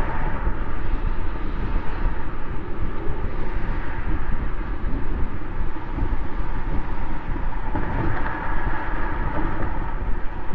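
Mercedes-Benz S600's twin-turbo V12 exhaust, heard from a microphone mounted near the tailpipe. The car is driving at a steady pace, with a low exhaust rumble under a constant rush of road noise.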